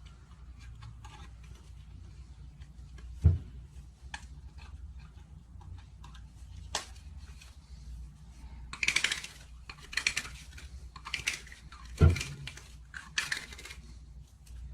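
Handling noise: scattered clicks and rustles of small hard objects being moved about, with two sharp knocks, one about three seconds in and one about nine seconds later, over a steady low hum.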